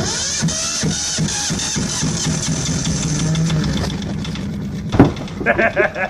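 Car engine running steadily, with a sharp bang about five seconds in followed by a quick run of rapid pulses.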